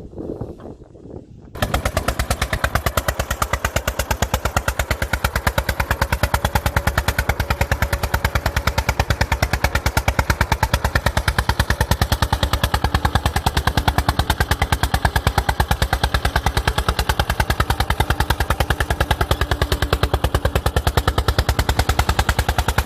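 1981 Eicher tractor's diesel engine running with a rapid, even knocking beat. It comes in abruptly about a second and a half in.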